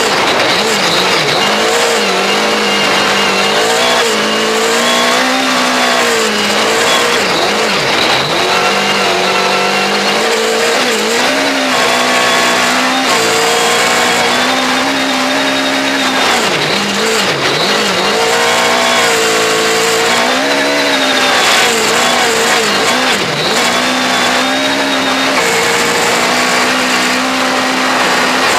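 Honda Civic Type R R3 rally car's Mugen-tuned four-cylinder engine driven hard, its pitch climbing under acceleration and dropping sharply again and again through gear changes and braking, over a steady hiss of road and wind noise.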